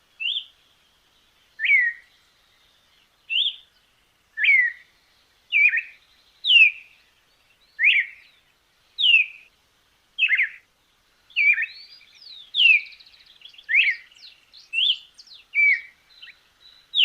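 A bird calling: a series of short, sharp notes that each slide down in pitch, repeated about once a second, about fifteen times. Fainter chirps fill the gaps in the second half.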